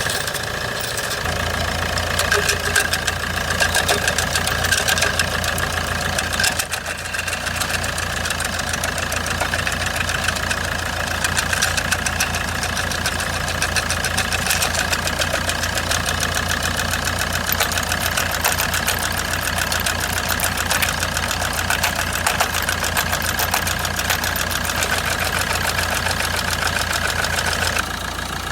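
An engine running steadily, with a fast clatter and a steady high whine over a low hum.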